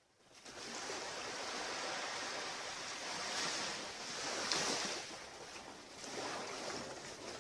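Ocean surf washing up a beach, a steady rush that swells a few times, most strongly about three and a half to five seconds in and again near six seconds.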